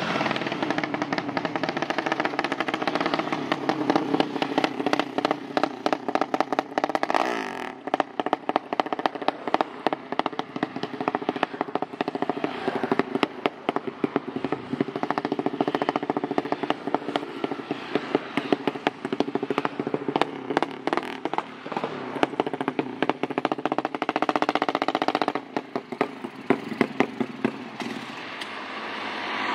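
Drag-race motorcycle engine running hard with a rapid crackle. Its revs rise and fall several times while it is tuned on different CDI ignition units.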